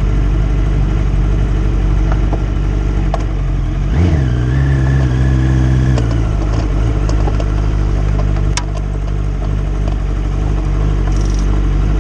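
Racing car engine idling close to the microphone, blipped up about four seconds in, held at higher revs for about two seconds, then settling back to idle.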